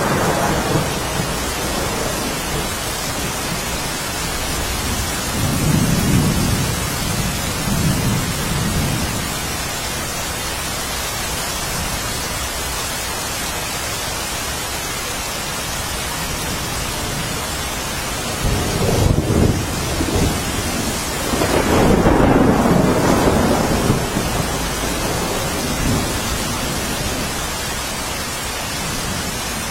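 Steady heavy rain with rolling thunder: a low rumble swells about five seconds in, and a longer, louder roll of thunder comes about two-thirds of the way through.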